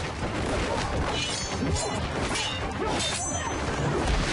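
Music with sharp crashing and whacking impacts from a staged sword fight, several hits in quick succession.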